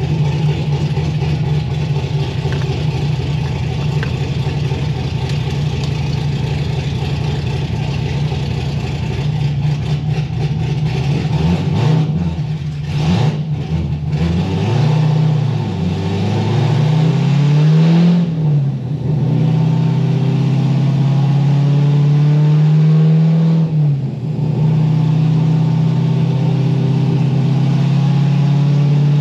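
Straight-piped LS7 V8 of a C6 Corvette Z06 with a titanium exhaust, running on a chassis dyno. It holds a steady drone, then the revs rise and fall through gear changes about 13, 18 and 24 seconds in, and it settles into a steady, slowly climbing drone as the car is brought up through the gears for a pull.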